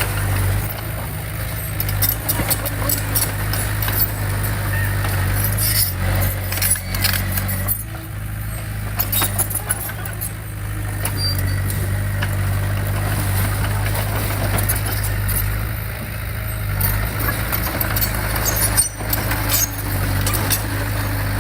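Diesel engine of heavy earthmoving equipment running steadily, with frequent sharp metallic clanks and knocks over it.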